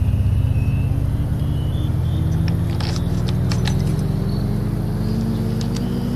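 Yamaha R25's 250 cc parallel-twin engine running steadily through an aftermarket Villan Pro 2 exhaust, its pitch creeping up slightly toward the end. A few short sharp ticks come in the middle.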